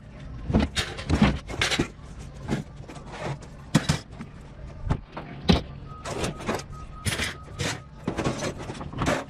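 Pieces of scrap steel being thrown by hand onto a scrap pile: a long irregular run of metal clanks and scrapes, some of them sharp and loud.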